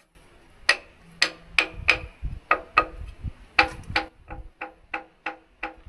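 A run of sharp metallic clicks, each ringing briefly, about three a second, pausing for a moment midway and then going on.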